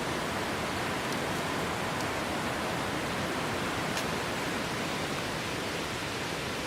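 Heavy rain falling steadily, an even hiss with a few faint ticks.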